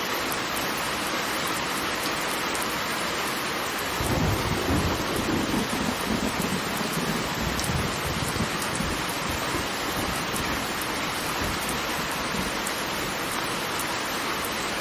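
Steady rush of falling water, joined about four seconds in by a low rolling rumble of thunder.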